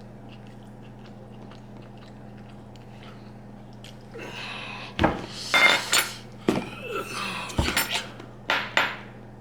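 Cutlery clattering and clinking against dishes, a run of sharp knocks and scrapes starting about four seconds in, some ringing briefly. Under it is a faint steady hum.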